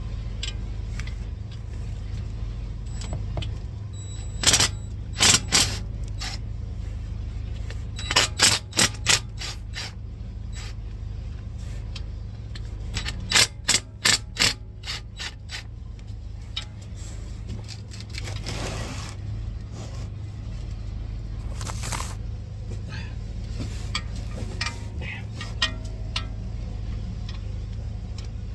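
Hand tools working the oil pan bolts: short bursts of metallic clicking in several clusters, over a steady low hum.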